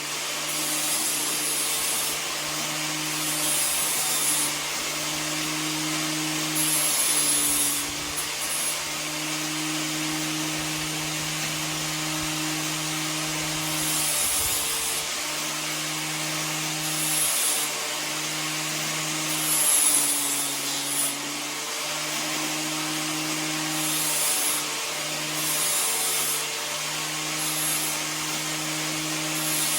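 A shop power tool running steadily with a humming drone, with short high hissing passes every second or two as steel tubing is worked.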